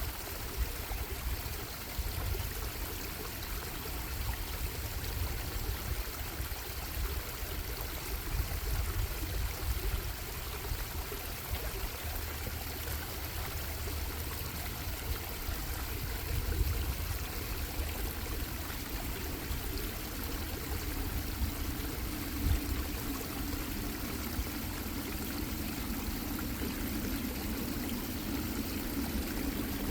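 A bubbling stream of water flowing steadily, with a deeper band of water sound coming up about two-thirds of the way through.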